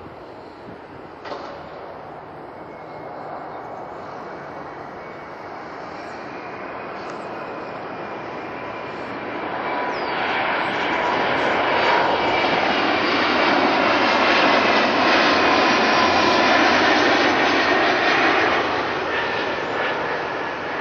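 Jet airliner's engines passing close by: a rushing roar with a steady whine that grows louder, is loudest for several seconds in the second half, then begins to fade.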